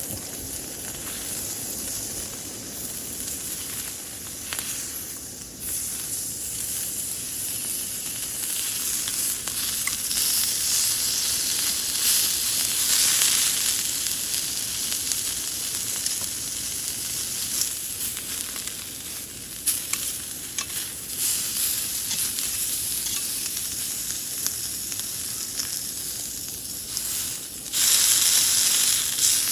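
Food sizzling as it fries in a pan, a steady hiss, with a louder burst of sizzling near the end.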